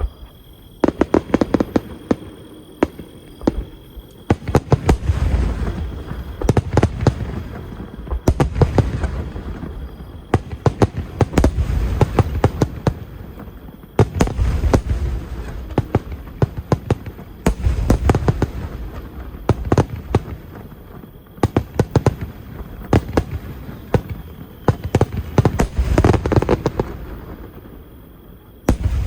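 Aerial fireworks exploding in rapid succession: booming shell bursts with rolling echoes, mixed with clusters of sharp crackling pops, coming in waves every few seconds.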